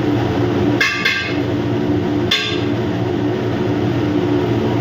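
Steady low machinery hum throughout, with two ringing metal clinks, a utensil against a cooking pot, about a second in and again past two seconds.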